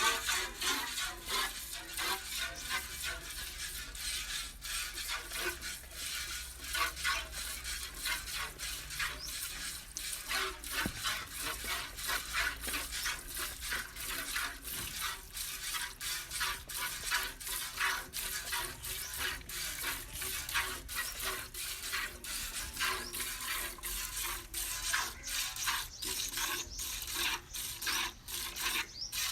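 Milk squirting into a pail in a quick, steady rhythm of jets as a cow is milked by hand.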